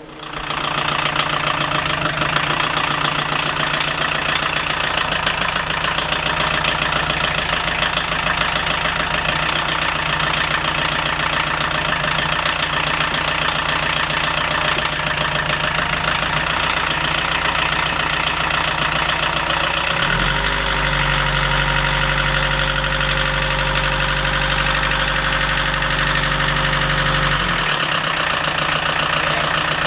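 Freshly swapped-in diesel engine of a 1980 Volkswagen Rabbit running at a steady idle, on its first run after the swap. A deeper steady drone joins it for several seconds in the last third, then stops abruptly.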